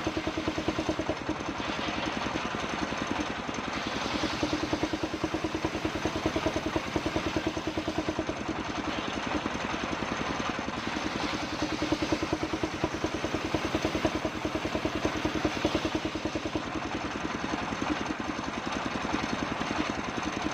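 The engine driving a homemade circular sawmill runs steadily with a fast, even chugging. Its tone swells and fades a little as it goes.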